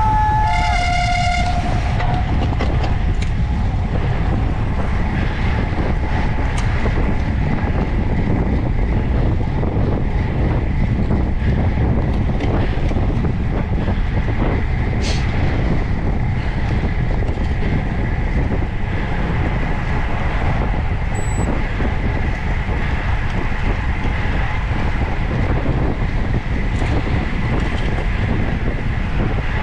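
Steady wind and road rumble on a camera carried on a moving road bicycle. A short pitched tone, like a beep or horn, sounds near the start.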